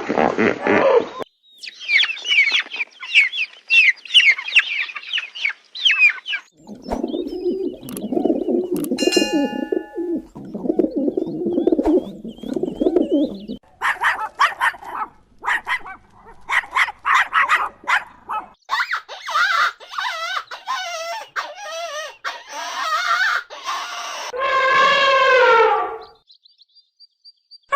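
Chickens calling in a run of separate clips: high rapid peeping, then low clucking, then louder repeated calls, and near the end one long crow that falls in pitch.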